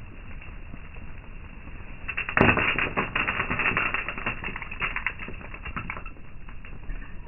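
Small birds' wings fluttering close by, a rapid run of soft clicks that starts suddenly about two seconds in and tapers off a few seconds later, typical of tits landing and taking off at a hand-held feeder.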